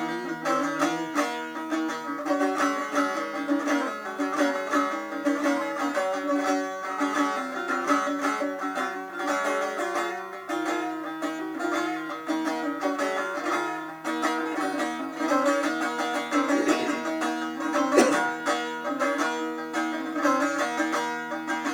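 Instrumental break in a Turkish folk song: plucked string instruments play the melody over a sustained low note, with no singing.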